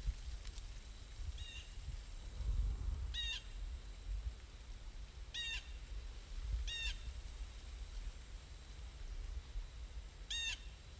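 A bird calling five times, short pitched calls spaced irregularly through the stretch, the first one fainter, over an uneven low rumble.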